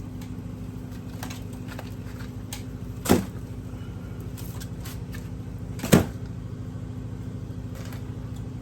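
A steady low machine hum, with two sharp knocks from food items being set down during a fridge clean-out, about three seconds apart, the second louder.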